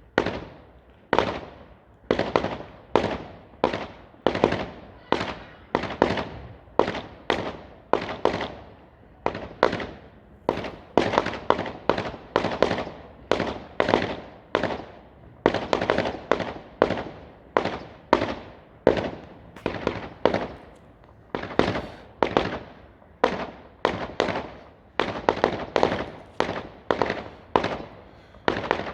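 Fireworks going off in a fast, even run of sharp bangs, one about every three-quarters of a second, each ringing out briefly. This is typical of a multi-shot firework barrage cake. The bangs start abruptly and keep going without a break.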